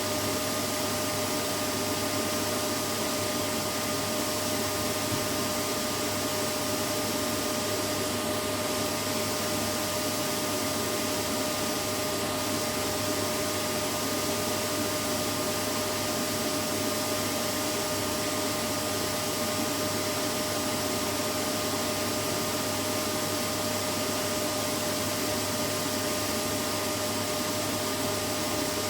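Vacuum cleaner running steadily: a constant rush of air with a steady whine in it, unchanging throughout.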